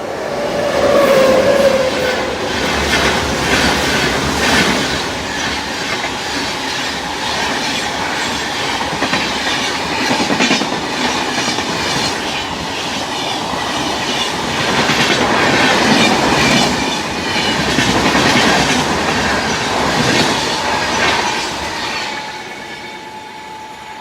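A train running past on the tracks, its wheels clattering steadily over the rail joints with some wheel squeal. The train's sound fades away near the end.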